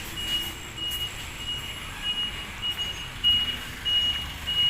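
A single high-pitched beep that repeats evenly, a little under two a second, over low outdoor background noise.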